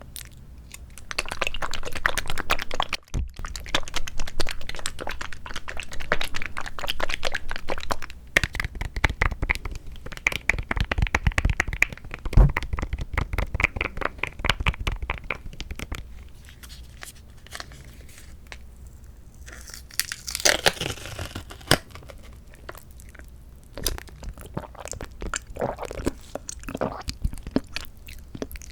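Close-miked eating of mandarin orange segments from a fruit cup: wet, crackly chewing and mouth sounds, dense and loud for the first half and softer after. A short crinkly rustle comes about two-thirds of the way in.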